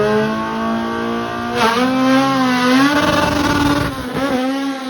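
Drag-racing car's engine running hard at high revs close by, a steady high-pitched note that steps up about one and a half seconds in, climbs slightly, and dips briefly near the end.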